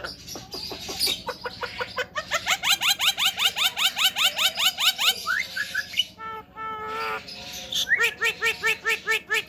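Javan myna calling: long runs of quick, evenly repeated short notes, several a second, each sliding down in pitch, broken by a short pause just past the middle before a second series of ringing repeated notes.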